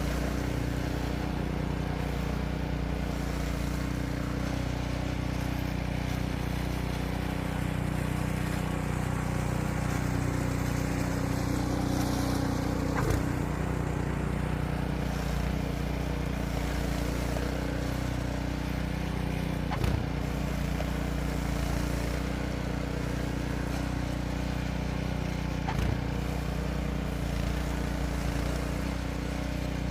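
An engine running steadily at an even speed, with three sharp knocks several seconds apart.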